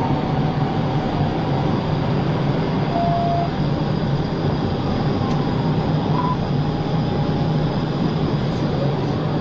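Steady engine, tyre and wind noise of a car driving at speed.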